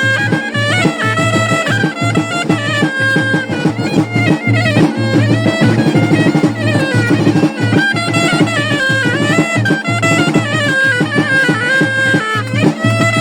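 Moroccan Jbala folk music: a loud, reedy wind-instrument melody moving in steps over regular drumbeats.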